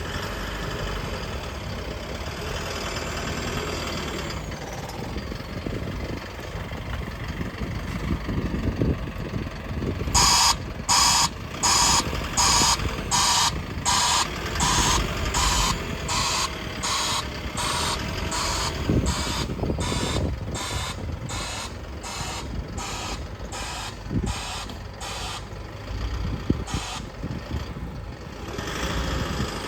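Isuzu NNR 200 light truck's diesel engine running, with its reversing alarm beeping steadily, a little under two beeps a second, for about sixteen seconds in the middle as the truck backs up.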